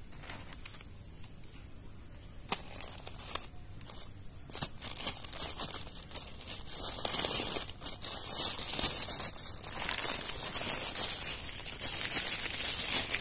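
Crinkling, rustling handling noise, sparse at first and becoming louder and nearly continuous from about a third of the way in.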